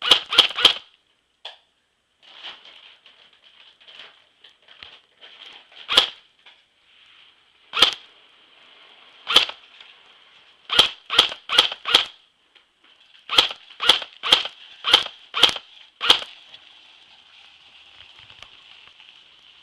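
Airsoft guns firing sharp, snappy shots: three quick ones at the start, then scattered single shots, then two rapid strings of about four and six shots roughly half a second apart, the last about 16 seconds in. A faint steady high-pitched hiss runs underneath.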